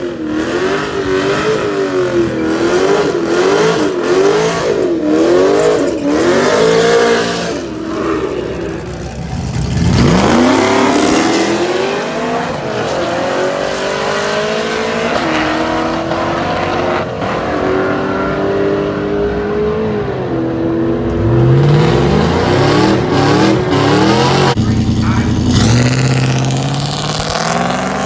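Drag-racing trucks' engines revving with a wavering pitch on the start line. About ten seconds in, a launch sends the pitch sharply upward, and it climbs in steps through gear changes. A second engine rises again near the end.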